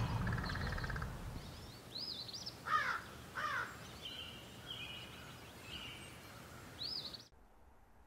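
Outdoor birds calling: repeated short chirps, with two louder falling calls about three seconds in. The sound cuts off abruptly to near silence about seven seconds in.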